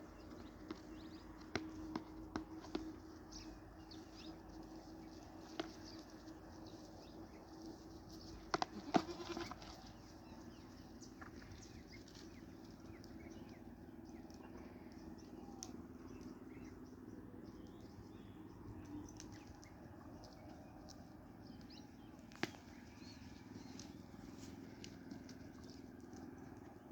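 Goats in a pen: faint movement with scattered clicks and knocks over a low steady hum, and a brief louder burst of knocks about nine seconds in.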